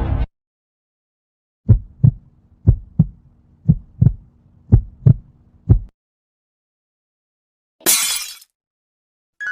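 A heartbeat sound effect: pairs of low thumps, lub-dub, about once a second for about four seconds over a faint low hum. About eight seconds in comes a short, sharp burst of noise lasting about half a second.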